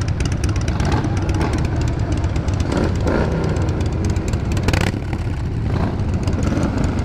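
Triumph 900 motorcycle engine running steadily while riding, with a brief rush of noise a little before five seconds in.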